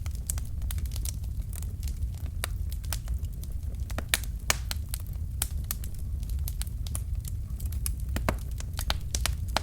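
Wood fire crackling: burning logs give off irregular sharp pops and snaps, several a second, over a steady low rumble of the flames.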